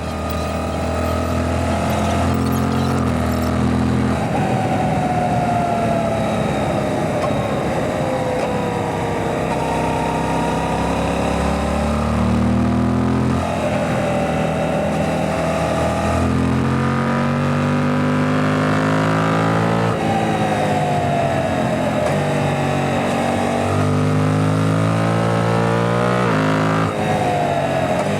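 Suzuki GSX-8S motorcycle's 776 cc parallel-twin engine heard onboard while riding, revs climbing and falling again and again, with sudden drops or jumps in pitch several times as the throttle or gear changes.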